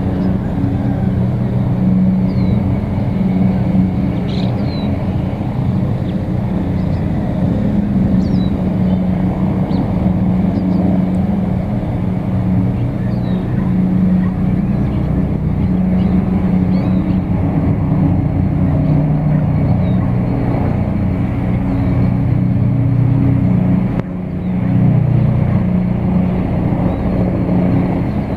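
Small turbine helicopters (Bell 206 and MD 530F types) flying, their rotors and engines making a loud, steady sound that dips briefly near the end.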